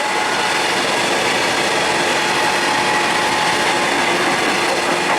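Electric train running along the track: a steady rumble of wheels on rail with a constant whine over it.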